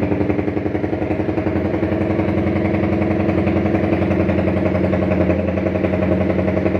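Honda CBR150R's single-cylinder four-stroke engine idling through a WRX GP 6 aftermarket exhaust, a steady, rapid pulsing exhaust note.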